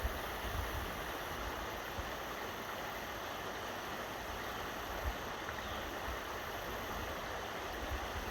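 Steady rush of flowing river water, with a few brief low thumps.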